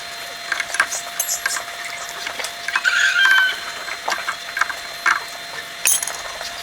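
Hand tools clicking, knocking and scraping on metal engine parts, with a short squeak about three seconds in.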